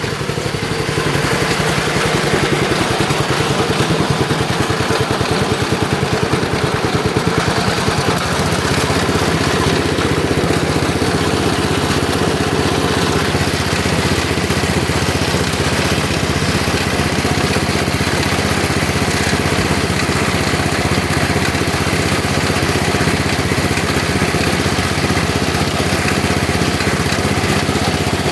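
Lawn tractor engine running steadily after a cold start; about eight seconds in its note changes and it settles into a smoother, steadier run.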